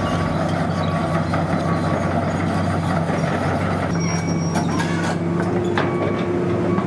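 Excavator's diesel engine running steadily with a mechanical hum, and a sharp metallic knock about six seconds in.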